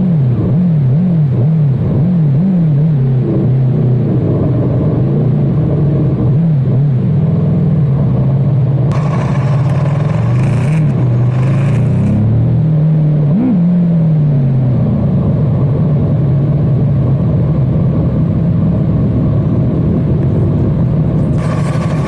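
Superbike engine being ridden: the revs rise and fall in quick repeated steps for the first few seconds, then the engine holds a fairly steady note with a few slower swells and one sharp throttle blip about halfway through.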